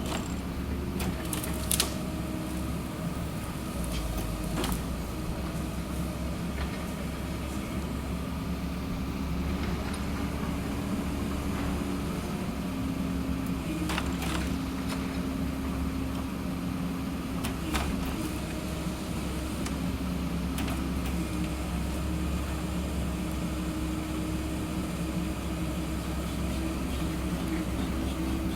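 The diesel engine of a small excavator-based forestry harvester running steadily, its note stepping up and down a few times as the hydraulics take load. Several sharp knocks come over it, one near the start and others about halfway and past halfway.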